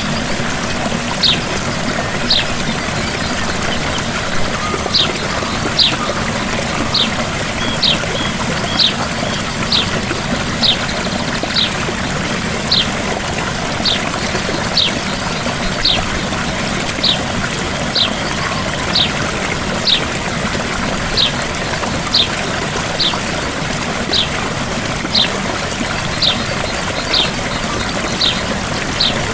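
Gentle waterfall splashing and trickling steadily. Over it, a short high chirp that falls in pitch repeats about once a second.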